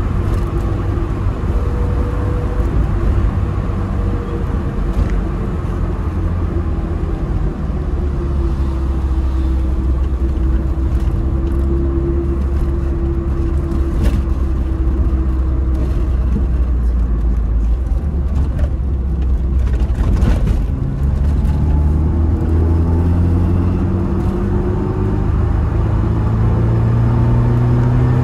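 Tofaş car's engine running through an aftermarket Konya exhaust, heard from inside the cabin while driving: a steady drone for most of the time, then after a short break about two-thirds in it revs up, rising in pitch as the car accelerates.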